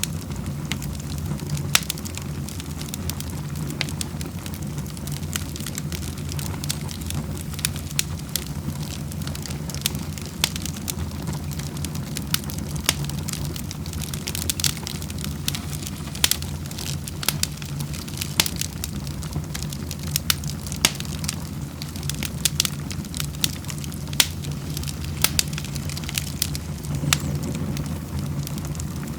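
Wood fire crackling in a fireplace: many small, sharp pops and snaps, irregular and frequent, over a steady low rumble.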